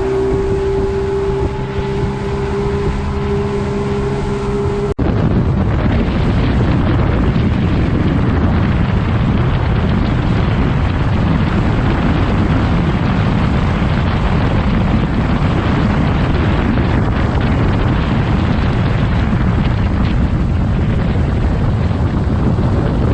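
Yamaha 225 V6 outboard motor running with a steady, pitched drone. About five seconds in, the sound cuts abruptly to loud wind noise on the microphone as the boat runs at speed.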